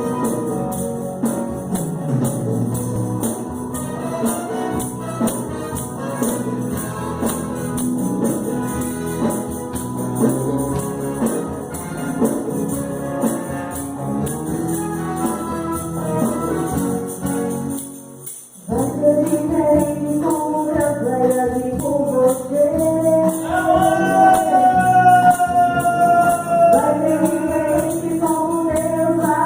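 Gospel worship music in church: voices singing over a fast jingling tambourine. About eighteen seconds in the music breaks off for a moment, then the singing comes back louder and clearer.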